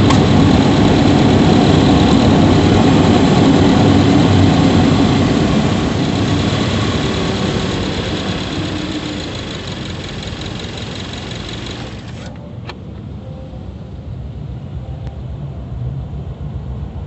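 Subaru Levorg 1.6GT-S engine heard from inside the engine bay, running loudly with a thin steady high tone over it, then easing off from about six seconds in. About twelve seconds in the higher part of the sound cuts off suddenly, followed by a click, leaving a low rumble.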